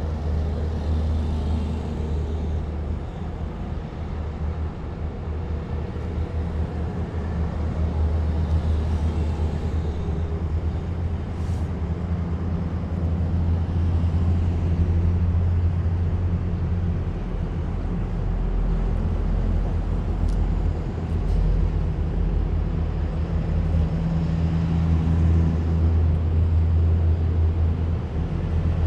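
A column of heavy military vehicles passing, their engines giving a continuous deep, steady rumble that swells a little as vehicles draw near.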